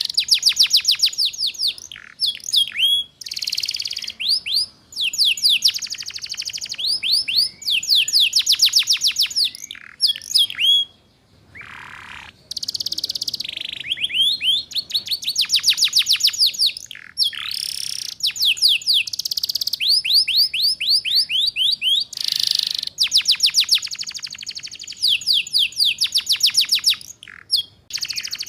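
Domestic canary singing the rapid "ngeriwik" trill: long runs of fast, evenly repeated high notes, each sweeping downward, broken by short buzzy phrases and brief pauses.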